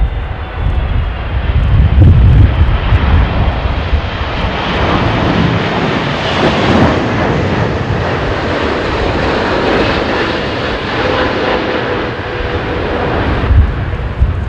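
Jet airliner engines on landing approach, the sound swelling to its loudest about six to seven seconds in and then easing off. Gusty wind buffets the microphone at the start and near the end.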